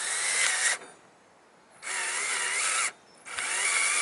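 Power drill drilling holes in three short runs, each a motor whine that wavers in pitch as the bit bites, with brief pauses between.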